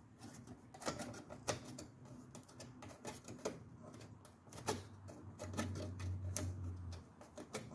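Irregular clicks and taps of a motorcycle license plate frame and its screws being handled and removed.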